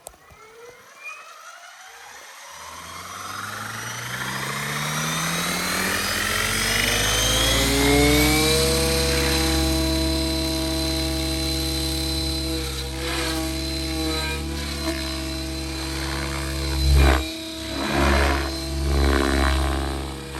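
Electric RC helicopter (Miniature Aircraft Whiplash 730 with an Xnova 4525-560Kv motor and 690 mm main blades) spooling up from standstill: the motor whine and rotor hum rise steadily in pitch for about eight seconds, then hold at a steady head speed. Near the end the rotor sound swells and dips a few times.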